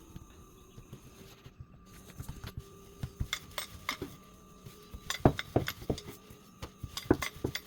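Kitchen utensils clinking and tapping against dishes and a pan: a run of sharp clicks and knocks, sparse at first and thick from about two seconds in.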